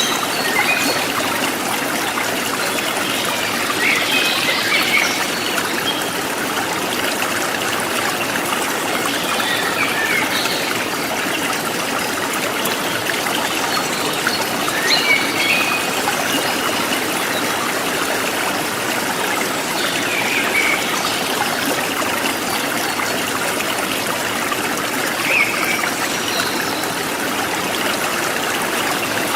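River water flowing and trickling steadily, with brief higher sounds standing out every few seconds.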